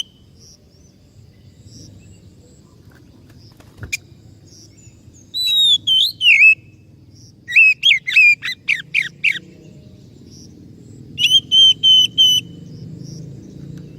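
Oriental magpie-robin (kacer) singing in loud bursts of whistled phrases: sliding notes about five seconds in, a rapid run of notes around eight seconds, and a string of repeated even notes near the end, over a low background rumble. A single click about four seconds in.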